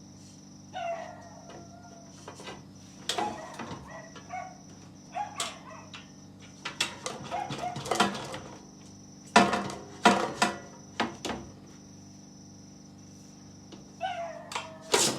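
Plastic clicks and knocks as an air fryer basket is worked loose and pulled out of its housing, the loudest knocks a little past the middle. Short voice-like sounds come near the start and end.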